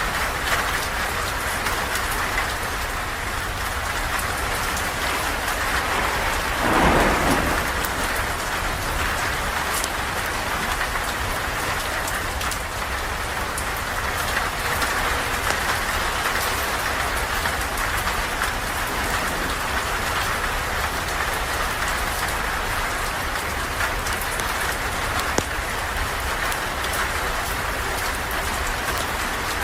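Rain falling steadily, with a brief louder swell about seven seconds in.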